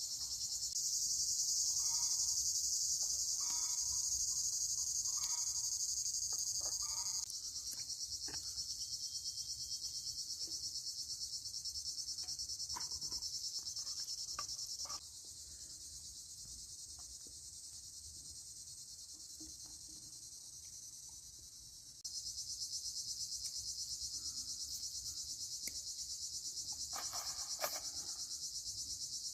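A dense, steady chorus of crickets chirping, with a few faint clicks and knocks underneath. The level drops and rises abruptly several times.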